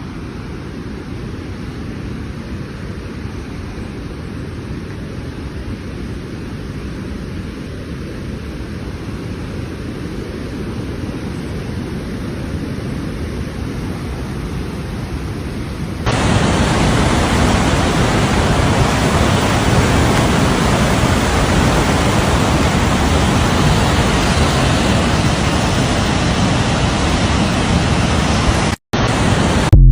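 Steady rush of falling water from the Salto del Laja waterfall. About halfway through it cuts abruptly to a louder, fuller rush: the falls swollen after rain.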